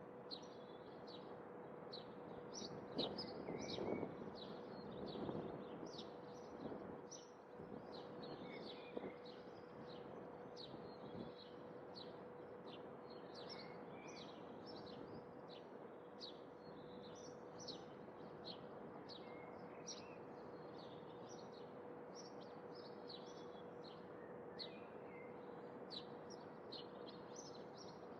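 Small birds chirping in many short, high chirps over a faint steady background hiss with a constant low hum. A louder stretch of noise swells about three to seven seconds in.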